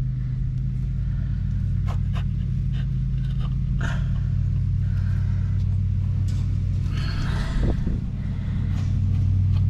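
A steady low mechanical hum, with a few light metallic clicks and a short scrape of tools and parts being handled at the engine.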